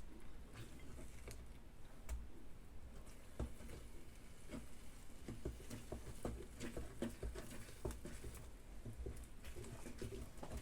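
Light, irregular clicks and taps of a utensil working an omelette in a non-stick frying pan, over a low steady hum.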